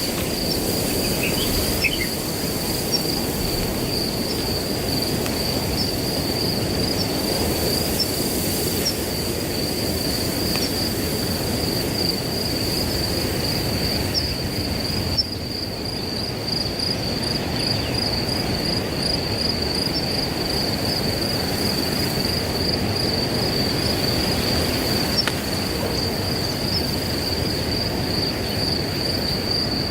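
Crickets trilling steadily in one continuous high-pitched chirring, over the low rush of wind through grass.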